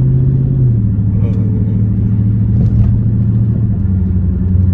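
Car engine droning steadily while driving, heard from inside the cabin, its pitch dropping a little just under a second in, over road noise.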